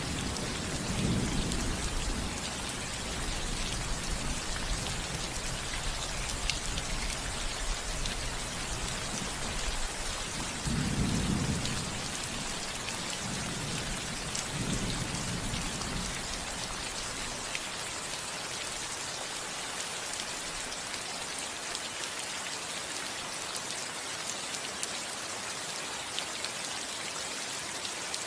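Steady rain falling on a roof, with low rumbles of thunder at the start and twice more around the middle, dying away after about two-thirds of the way through.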